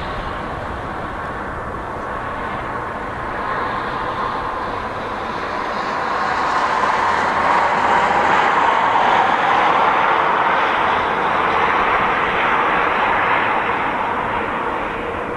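Freight train hauled by a three-section 2ES10 electric locomotive running past: a steady rolling rumble with a faint hum that swells louder in the middle and then eases off.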